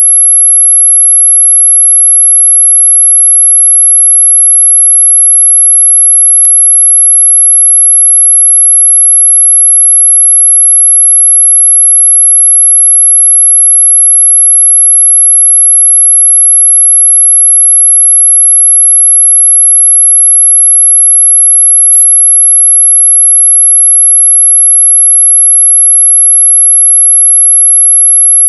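A loud, steady, very high-pitched pure tone played as an anti-mosquito repellent sound, unbroken throughout. There is a faint click about six seconds in and a sharper click about 22 seconds in.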